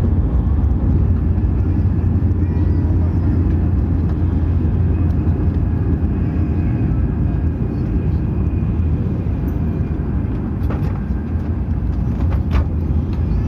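Steady low rumble of a Hokuriku Shinkansen train running at speed, heard inside the passenger car, with a couple of faint clicks near the end.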